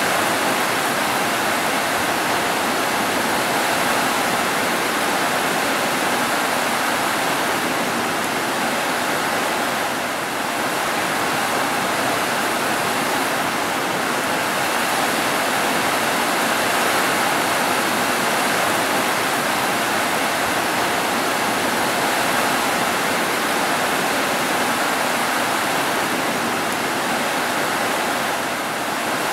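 Rain falling steadily on a tile roof: a dense, even hiss with no thunder.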